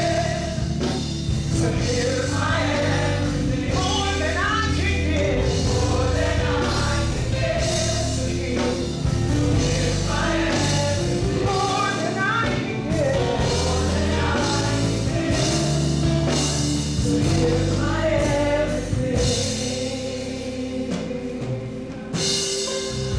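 A gospel ensemble singing with a live band, voices in harmony over bass and drums, easing off in level near the end.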